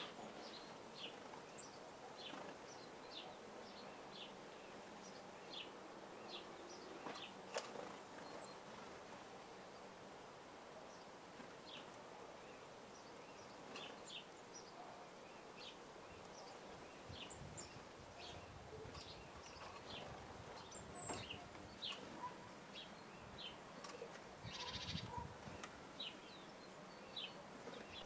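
Faint outdoor bird calls: small songbirds giving short, high chirps every second or so over a steady hiss, with a low rumble in the second half.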